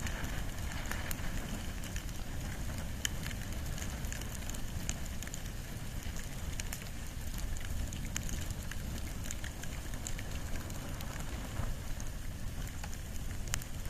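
Wood and bamboo fire burning: a steady low rush of flame with scattered sharp crackles and pops.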